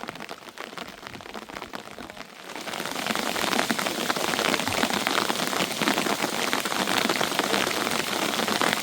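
Rain falling hard as a dense patter of many small impacts, which suddenly becomes much heavier and louder about two and a half seconds in.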